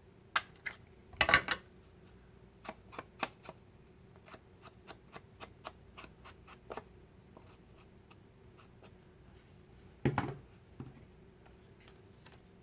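Paper being handled and punched with a 1-inch hole punch to make a thumb hole: a loud crunching clack about a second in and another about ten seconds in, with a run of small paper ticks and rustles between.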